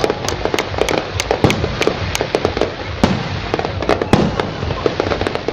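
Fireworks display: a rapid, irregular run of sharp bangs and crackles, several a second, over a constant low rumble.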